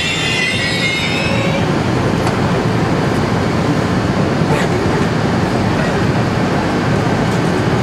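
High squeal from a LeNORD double-deck electric train's brakes and wheels fades out about a second and a half in as it comes to a stop. A steady rumbling noise follows while it stands at the platform.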